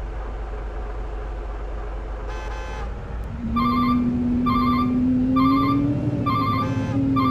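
Truck engine running steadily. About three seconds in, a long low horn blast starts abruptly and holds, rising slightly in pitch. Alongside it, an electronic chirping alarm repeats about once a second.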